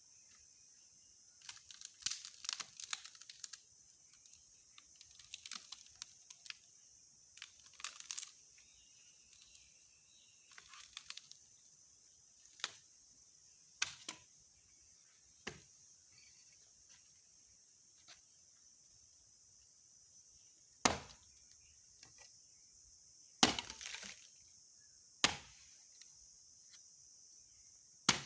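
Dry branches and twigs snapping and crackling in several quick clusters, then a series of single sharp cracks a second or more apart, as dry wood is broken up. A steady high insect buzz runs underneath.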